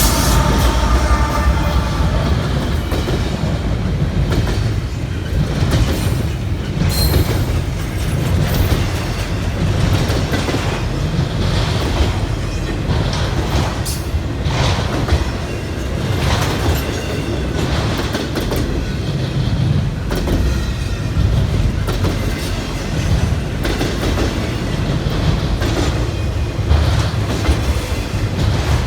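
CSX freight train rolling past, with a steady low rumble and repeated wheel clacks over rail joints.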